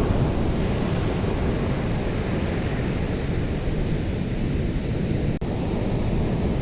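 Ocean waves washing on a beach in a steady, unbroken wash that is strongest in the low end, with a momentary dropout about five seconds in.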